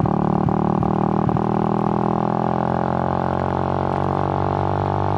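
Suzuki GN125's single-cylinder four-stroke engine running at a steady pitch, with a few sharp clicks in the first second and a half.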